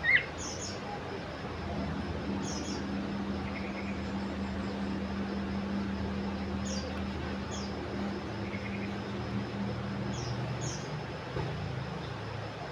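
Small songbird giving short, high chirps, mostly in quick pairs, every couple of seconds, over a steady low hum.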